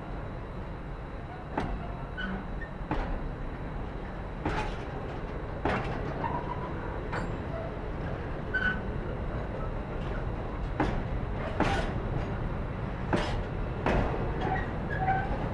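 Freight train wagons rolling past over jointed track: a steady low rumble broken by irregular sharp knocks as the wheels cross rail joints and points.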